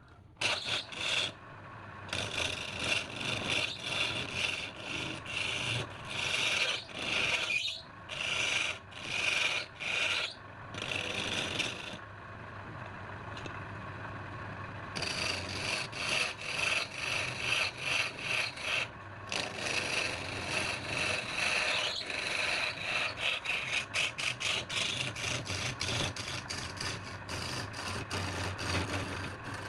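A hand tool scraping wood in repeated back-and-forth strokes, about one or two a second at first. After a short steadier lull the strokes become faster and shorter.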